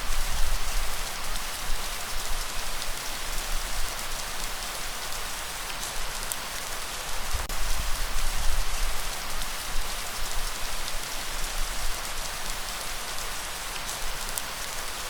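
Steady heavy rain, a dense even hiss, over a deep low rumble that swells and fades a few times.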